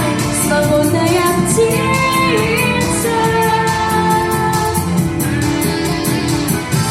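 A girl singing a pop song's closing phrase over a backing track with a steady beat. Her voice glides, then holds long notes, and the music stops at the end.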